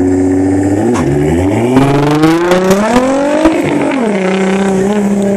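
Nissan GT-R's twin-turbo V6 pulling away under hard acceleration. The revs hold steady, dip about a second in, climb for about a second and a half, then drop back near the middle and settle to a steady run.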